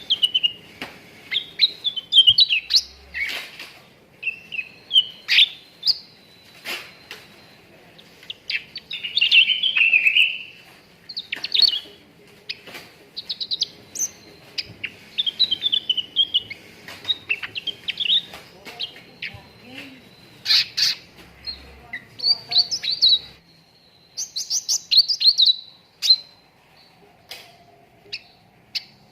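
Cucak ranting singing: bursts of rapid, high chirps and short twittering trills with brief pauses between phrases.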